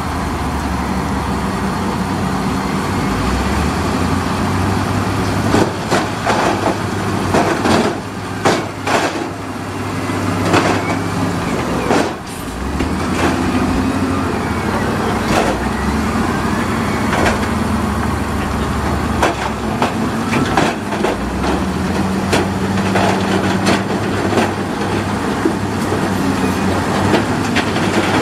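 Heavy diesel construction machinery running, its engine note stepping up and down under load, with a run of hard knocks and clanks from about six to twelve seconds in and a few more shortly after.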